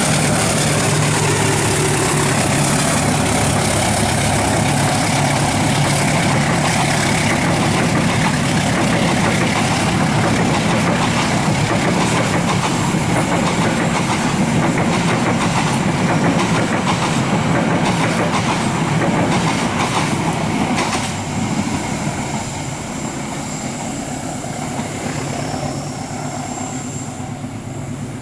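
Indonesian passenger train running past, wheels clattering over the rail joints; the noise eases off about 21 seconds in.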